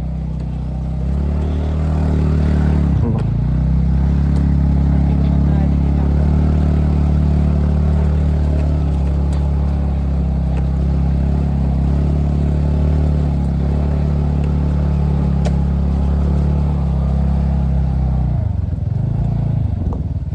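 TVS Ntorq scooter's single-cylinder engine running steadily as it is ridden. Its pitch dips briefly about three seconds in and again near the end.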